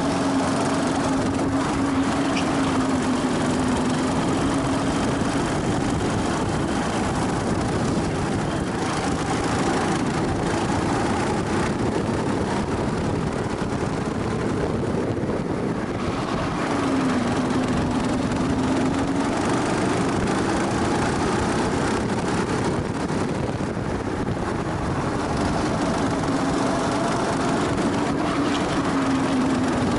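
Go-kart engine running at speed, heard onboard. Its note falls as the kart slows, then climbs again, a few times over, over a steady rush of noise.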